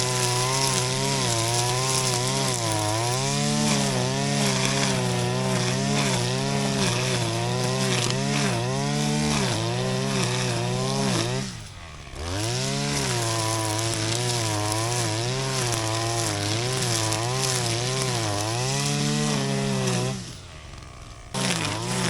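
Shindaiwa RK3026-PT 25.4 cc two-stroke brush cutter engine running at high speed while cutting grass, its pitch wavering up and down with throttle and load. Twice, about halfway and near the end, it drops briefly to a low idle and then revs back up.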